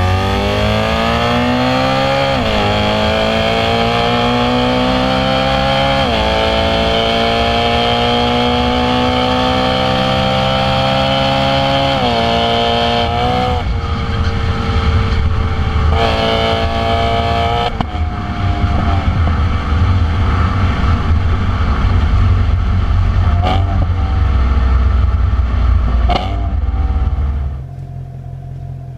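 BMW M3 engine and exhaust pulling hard through the gears. The note climbs steadily and drops sharply at each upshift, about 2.5, 6 and 12 seconds in. It then settles into a rougher, uneven note that falls away near the end.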